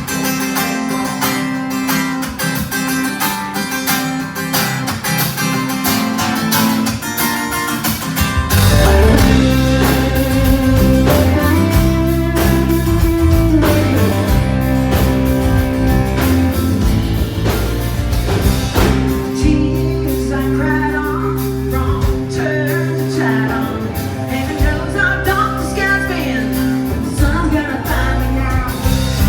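Band playing a song with guitar and singing; it opens on guitar, and the bass and drums come in about a third of the way through, making it fuller and louder.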